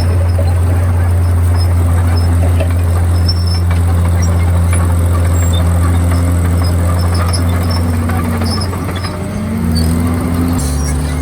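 Komatsu D51PX bulldozer's diesel engine running steadily, its note dipping and rising again about nine seconds in, with scattered faint high squeaks.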